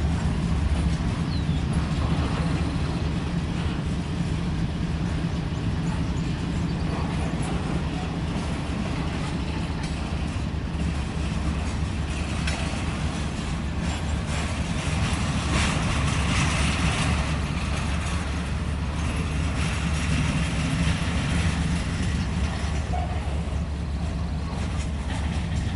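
Freight cars of a CSX manifest train rolling past: a steady low rumble of steel wheels on rail, with heavier clanking and rattling around the middle.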